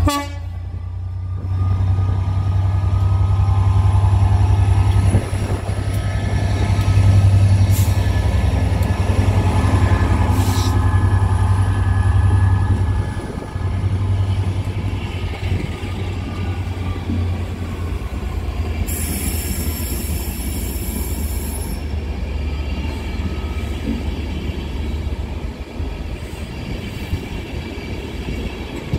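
Train at a station platform, with a heavy low engine rumble that eases about thirteen seconds in. A brief high-pitched sound comes about nineteen seconds in and lasts some three seconds.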